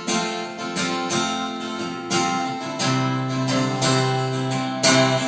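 Acoustic guitar strummed in a steady chord pattern between sung lines of a song, with no voice.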